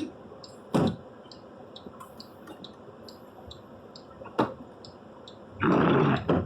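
Steady rain hiss from inside a car in a heavy storm, with even light ticking about twice a second. Two sharp clicks come about a second in and a little past four seconds, and a loud whooshing sweep comes near the end.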